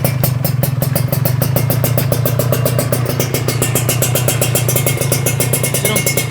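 Kawasaki Ninja R's two-stroke single-cylinder engine idling steadily through an aftermarket sheet-metal racing muffler, with an even, rapid exhaust beat.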